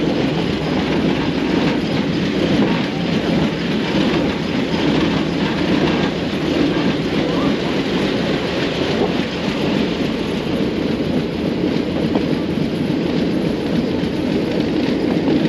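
Vintage railway coach running along the track, heard at its open window: a steady rumble of wheels on rail with a rushing noise and no distinct beats.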